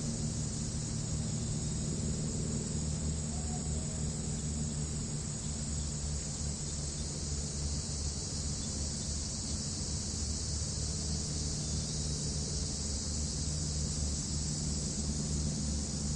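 Crickets and other grass insects chirring in a continuous high-pitched chorus, with a steady low rumble underneath.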